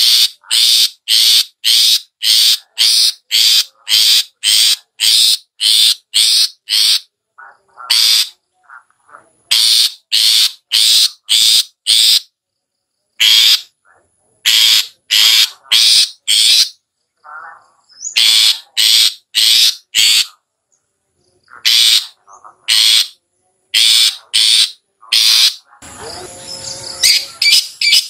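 Long-tailed shrike (cendet) giving loud, harsh repeated call notes, about two to three a second, in runs with short pauses between them. Near the end there is a messier, rasping stretch.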